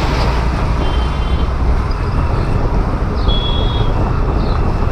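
Steady rumble of wind and road noise while riding a scooter, with two short high-pitched beeps, one about a second in and one about three seconds in.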